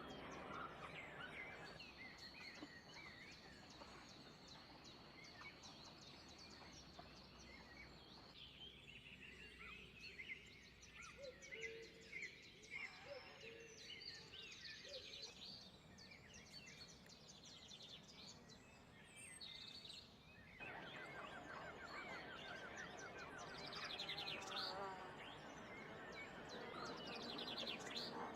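Several wild birds chirping and calling faintly over a steady background hiss of ambient noise. A steady high-pitched tone holds through the first several seconds, and rapid trills come near the end.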